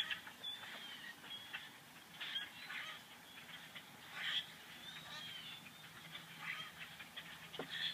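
Birds calling: a string of short, harsh calls, some with a duck-like quacking quality, mixed with brief whistled chirps.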